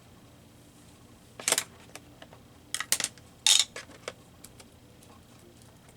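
Paper cutouts being handled on a craft table: a few short, crisp rustles and clicks in two quick groups, the loudest a little past halfway.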